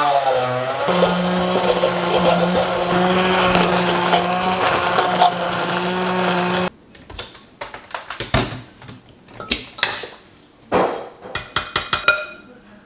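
Electric kitchen blender running steadily, then switched off abruptly about two-thirds of the way in. A few light clicks and knocks follow.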